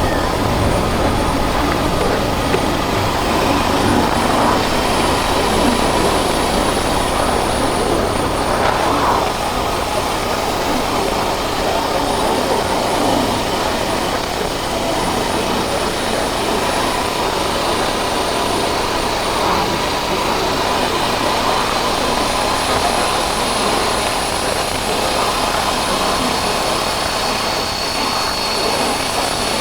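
Motorcycle under way on the road: a steady rush of wind and engine noise that holds at the same level throughout.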